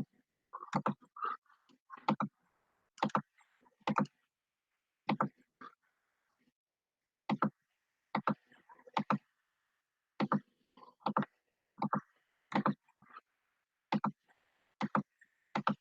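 Computer mouse clicks, about twenty sharp single clicks and quick pairs at an irregular pace of one or two a second.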